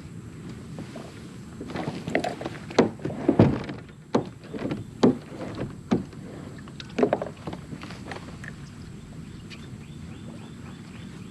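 Kayak on the water: a run of sharp knocks and splashes from about two to seven and a half seconds in, over a steady low rumble.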